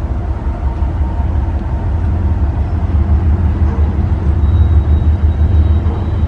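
A car driving, with a steady, loud low drone of engine and road noise.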